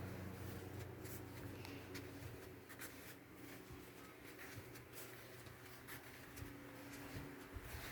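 Faint rustling with scattered soft clicks and a few light low thumps over quiet room tone.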